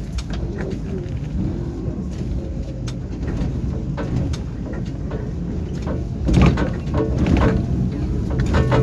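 Tram running, heard from inside the car: a steady low rumble with many short clicks and a wavering low tone, growing louder about six seconds in.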